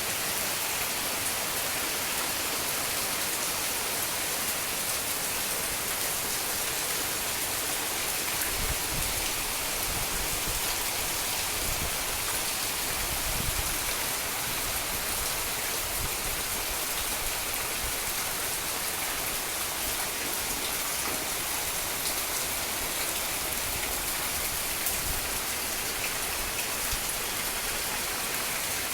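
Heavy rain pouring steadily, an even downpour with no let-up.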